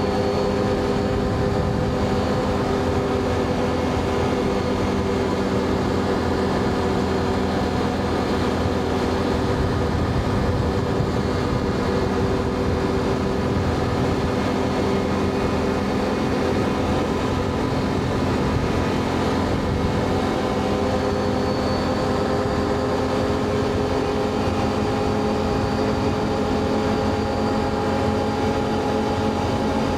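Can-Am Outlander ATV engine running steadily under way, its pitch slowly sinking, then stepping up about two-thirds of the way through and climbing gently.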